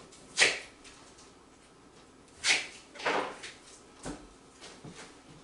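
A few short knocks and clatters of things being handled and set down, four in all, the loudest near the start and about halfway through.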